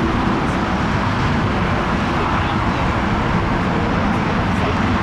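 Steady jet engine noise from a Lufthansa Airbus A340-300's four CFM56 turbofans, holding even without rising or falling.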